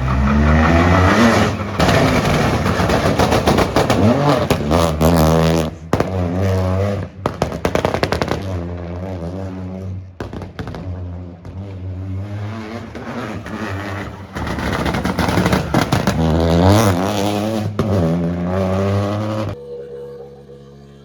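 Rally car at full throttle, its engine revving up and down through gear changes, with rapid bursts of sharp pops and bangs from the exhaust. The engine sound cuts off suddenly near the end.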